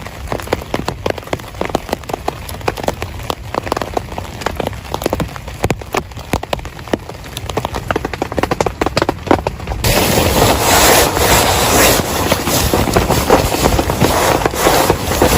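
Heavy rain, with individual drops tapping sharply on a nearby surface. About ten seconds in, the sound switches abruptly to a louder, denser hiss.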